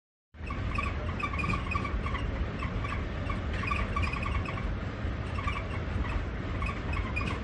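Train running with a steady low rumble and short, high squeaks that come back in clusters about once a second, starting suddenly about a third of a second in.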